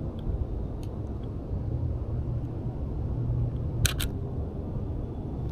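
Canon EOS RP camera shutter firing once: a quick double click about four seconds in, over a steady low rumble.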